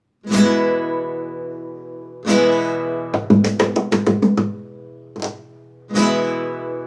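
Acoustic guitar strummed as a song's intro: single chords left to ring and fade, with a quick run of short strums in the middle and no voice yet.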